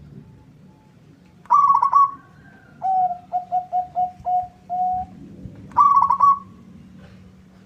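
Zebra dove cooing: a quick burst of rolling notes about a second and a half in, a string of about seven shorter, lower coos, then another rolling burst about six seconds in.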